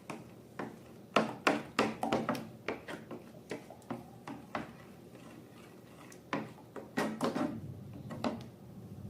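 Slime being handled and mixed: a string of irregular sticky clicks, smacks and taps, busy at first, easing off in the middle, then picking up again.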